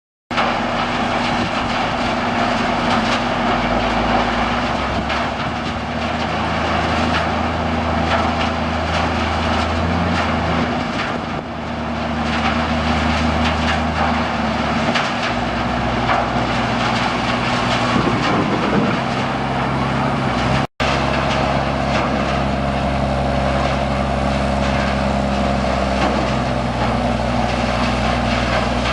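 Mobile trommel screen running: a steady machine drone with a broad rushing noise over it, shifting slightly in pitch a few times.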